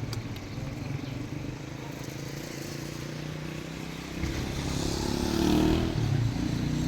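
Motor vehicle engine running, growing louder from about four seconds in.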